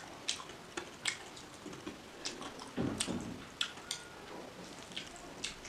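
A person chewing fried egg close to the microphone, with a scatter of short wet mouth clicks and smacks at an uneven pace.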